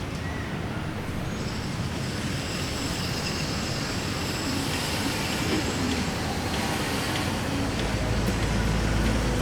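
Steady city road-traffic rumble with a low drone, slowly growing louder as vehicles approach.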